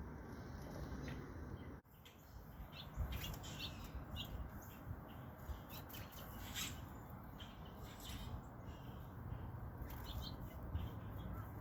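Backyard songbirds chirping, many short high chirps scattered here and there, over a steady low outdoor rumble.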